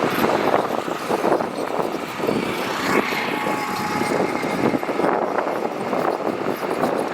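Heavy diesel earthmoving machinery running steadily while gravel crunches and rattles in a dense crackle.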